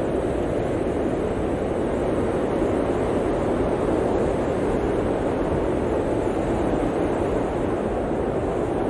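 Blizzard wind blowing in a steady, dense rush of noise, strongest in the low-middle range.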